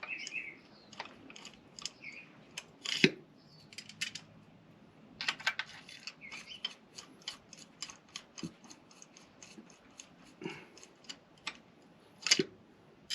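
Scattered clicks and light knocks of small hard objects being handled, with a sharp knock about three seconds in and another near the end; the engine is not running.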